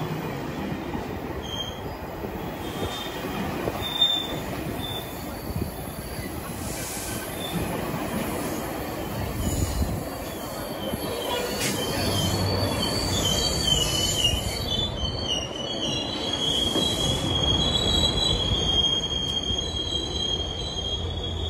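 GO Transit bi-level passenger coaches rolling past as the train arrives at the platform, with a steady rumble and rattle of wheels on the rails. A little past halfway a high, steady metallic squeal sets in and holds to the end.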